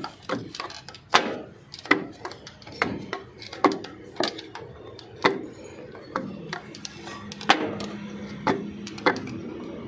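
Repeated hammer-like knocks, about one a second, each ringing briefly, struck while fitting pistons and rings into a Massey Ferguson 385 diesel tractor engine.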